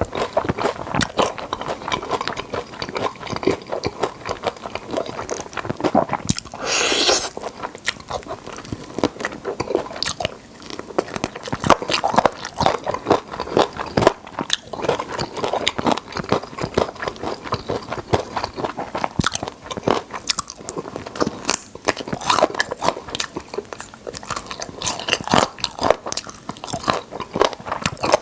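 Close-miked biting, crunching and chewing of crispy fried chicken drumsticks coated in Bburinkle seasoning, irregular wet crackles and crunches throughout. About seven seconds in there is a louder noisy burst lasting about a second.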